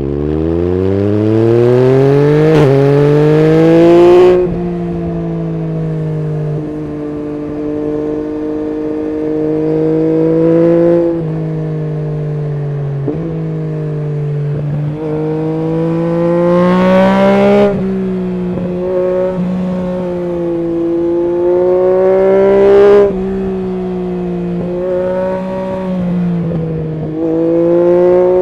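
Yamaha MT-09 SP's three-cylinder engine through an Akrapovic full exhaust system, pulling hard with a steeply rising note for the first four seconds, then cutting off sharply. It cruises at part throttle with small rises and dips, pulls again with a rising note and cuts back once more a little over halfway through.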